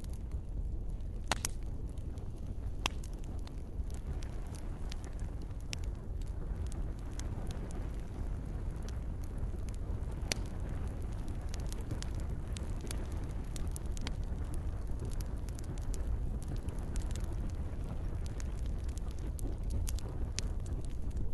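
Campfire crackling: scattered sharp pops and snaps, two of them louder than the rest, over a steady low rumble of burning.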